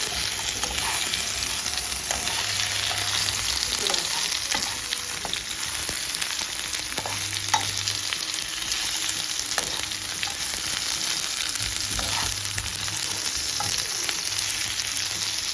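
Steamed chicken pieces shallow-frying in hot oil in a pan: a steady sizzle with scattered pops and clicks, one sharper click about seven and a half seconds in.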